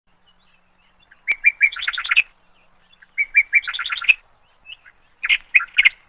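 A songbird singing three short, repeated phrases about two seconds apart, each a few separate clear notes followed by a quick run of rapid notes.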